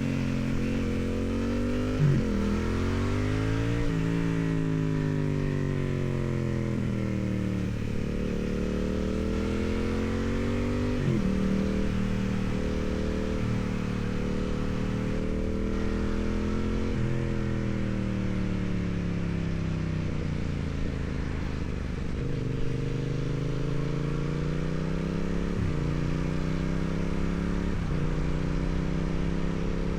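2016 Yamaha MT-07's 689 cc parallel-twin engine through its stock exhaust, heard from on the bike while riding. The revs climb and fall again and again: they drop suddenly at gear changes and sink more slowly when the throttle is rolled off, over a steady rush of wind.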